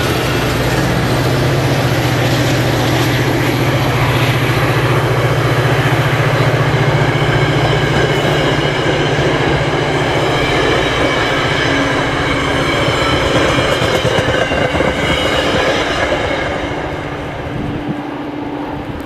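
Metra commuter train powered by an F40PH diesel locomotive rolling out on the tracks, a dense steady rumble of wheels on rail over a constant low drone, fading over the last few seconds as it draws away.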